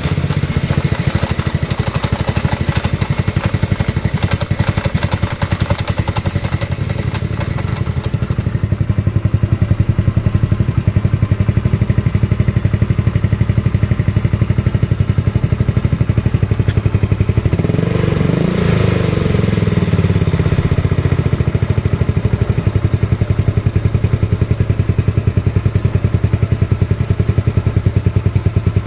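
Scooter's 150cc 157QMJ (GY6-type) single-cylinder four-stroke engine idling steadily, with a brief rev up and back down about eighteen seconds in.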